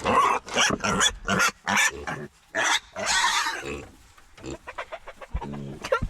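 Idaho pasture piglets squealing and grunting, with a run of loud, shrill cries over the first three seconds or so, then quieter grunts.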